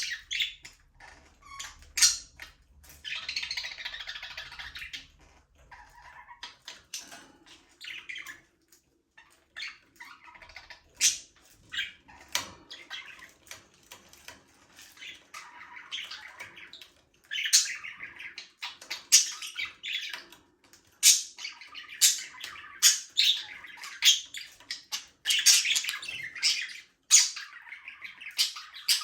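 A flock of budgerigars chirping and squawking, many short calls overlapping, with sharp clicks mixed in, busier from about halfway on.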